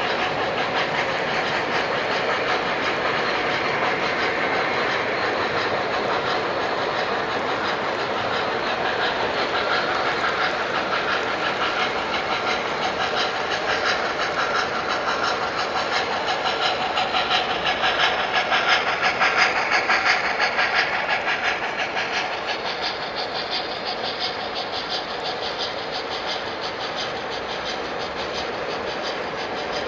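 Model trains running on a display layout, their wheels clicking steadily over the track. The rattle swells about two-thirds of the way through as a train passes close, then eases off.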